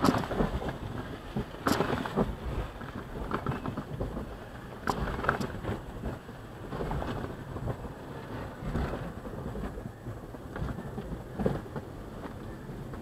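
Car wash working over a car: a steady rumbling wash of noise broken by many irregular knocks.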